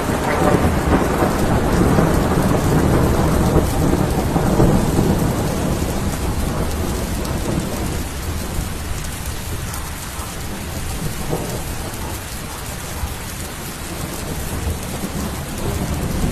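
Rain falling steadily with a long roll of thunder that slowly dies away over the first ten seconds or so; the rumble swells again near the end.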